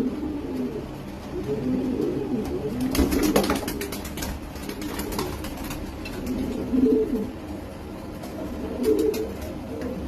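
Racing pigeons cooing, low calls repeating every second or two. A burst of sharp clicking and rustling comes about three seconds in, with a few more clicks near the end.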